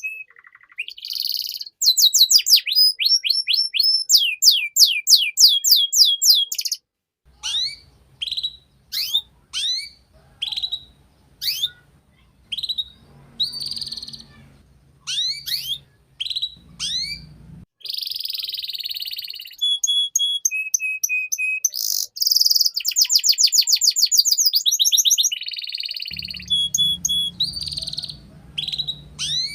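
Domestic canary singing in fast trills of repeated notes and rapid falling whistles, broken by short held tones and brief pauses.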